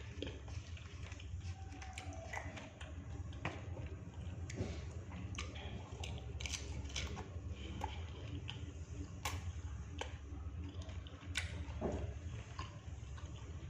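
A person chewing and eating batagor close to the microphone, with irregular small clicks and mouth sounds over a steady low hum.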